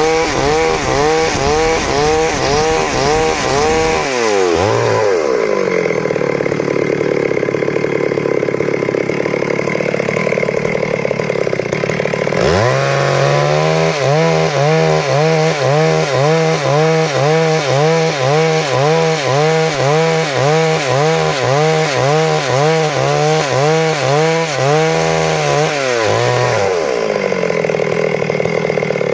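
Stihl MS 382 two-stroke chainsaw cutting along a log to mill boards. In the cut, the engine runs lower, its pitch wavering in a steady rhythm of about two swells a second. It revs up higher about four seconds in, drops back into the cut about eight seconds later, and revs up again near the end.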